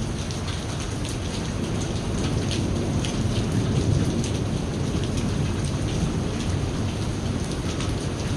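Steady rain with many close drops pattering on a surface, over a low rolling thunder rumble that swells about halfway through and then eases.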